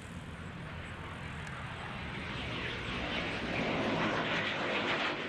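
Jet aircraft engine noise: a dense rushing sound that grows steadily louder, getting brighter and more hissing in the second half.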